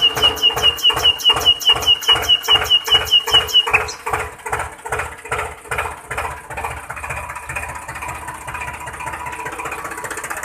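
Miniature diesel engine model running a small water pump, knocking at a steady beat of about five a second with a high squeak on each beat. About four seconds in the squeak stops and the running becomes quieter and less even.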